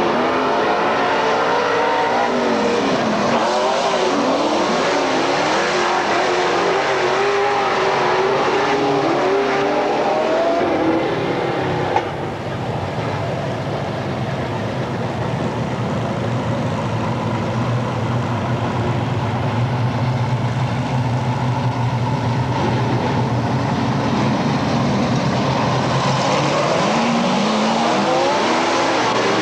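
Several dirt-track race car engines running at once, their pitch rising and falling as the cars accelerate and pass. A sharp click about twelve seconds in is followed by a steadier, lower engine drone, and the rising-and-falling engines come back near the end.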